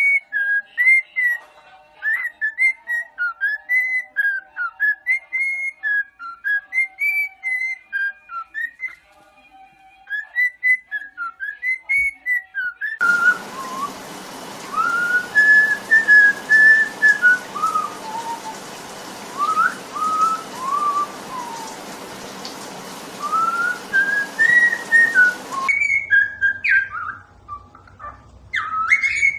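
Pet bird whistling tune-like phrases of short notes that glide up and down. The notes come in quick runs at first, then in slower arching phrases over a steady hiss from about 13 seconds in, then in sharp separate chirps near the end.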